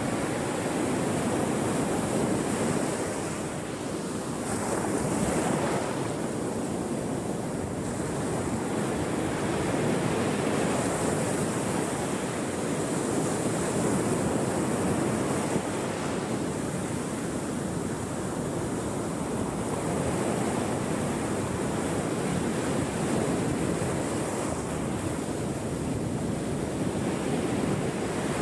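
Ocean waves washing onto a shore in a continuous wash that swells and eases every few seconds, with a hissing spray of surf as the waves break.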